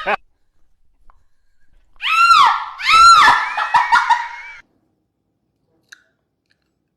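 A loud, very high-pitched squeal, about two seconds in: two quick rise-and-fall cries, then a held note that stops suddenly.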